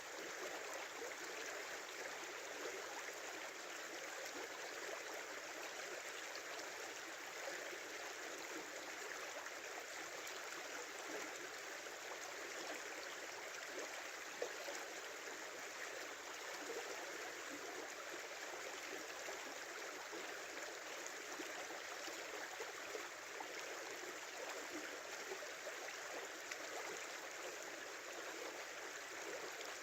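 A small winter river flowing and murmuring over its bed, a steady, even rush of water with one brief tick about halfway through.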